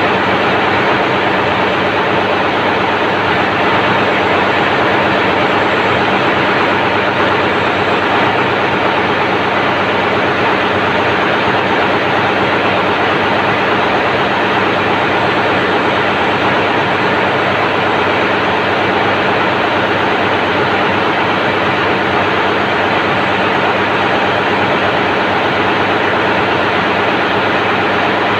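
Daihatsu 6DL-19 six-cylinder auxiliary diesel engine, the ship's generator, running steadily at its working speed. It is heard as a loud, unchanging engine-room din with a low steady hum under a dense hiss.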